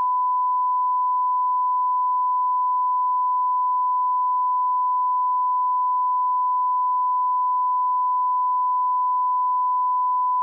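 Steady 1 kHz sine-wave reference tone, a single pure pitch held at constant level: an audio line-up test tone at −18 dB.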